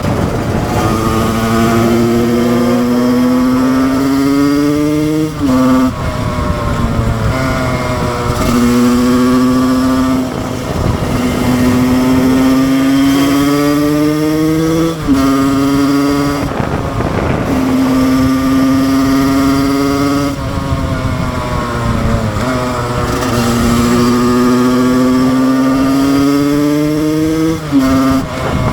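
Husqvarna 125 SM two-stroke supermoto engine at high revs, ridden hard. The engine note climbs steadily in pitch through each gear and drops sharply at each upshift, about six times.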